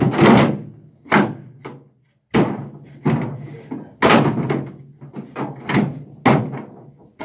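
Removable seat being moved and set down on an aluminium boat: a run of sharp clanks and thuds, about a dozen knocks, some in quick pairs.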